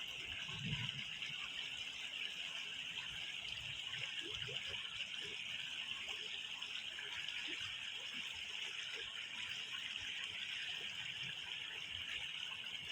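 Waterfall running, a steady, even rush of water.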